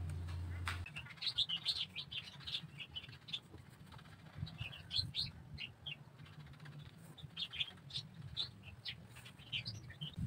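Small birds chirping in quick clusters of high twittering calls, in three spells, over a low steady hum.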